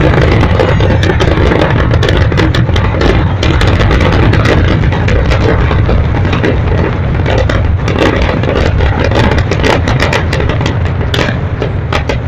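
Fireworks going off in a dense, continuous barrage of rapid bangs and crackles over a steady low rumble, thinning slightly near the end.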